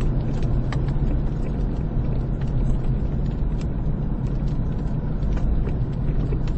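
Road and engine noise inside a moving car's cabin: a steady low rumble, with scattered light ticks.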